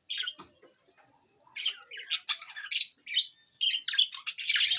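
Budgerigars chirping and chattering in quick clusters of short, high calls, sparse at first and dense from about a second and a half in.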